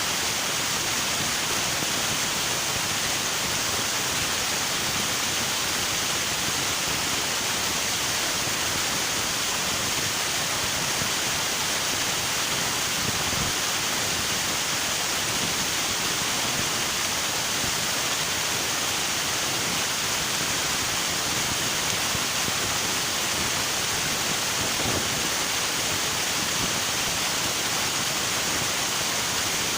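A river running steadily: continuous, even rushing of water with a bright hiss and no distinct events.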